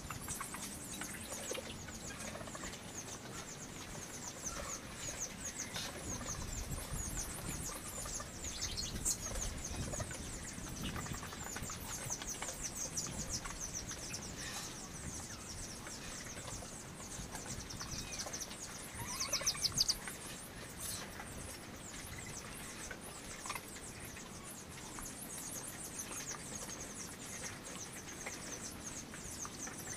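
Farmyard ambience with small birds chirping over and over in short, high calls. A quick run of chirps about two-thirds of the way through is the loudest moment.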